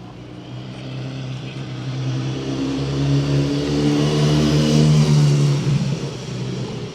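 A motor vehicle passing close by on a city street. Its engine note and tyre noise grow louder to a peak about five seconds in, then fade.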